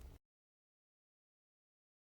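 Near silence: a very faint low hum and hiss from the faded-out recording cuts off to dead silence a fraction of a second in.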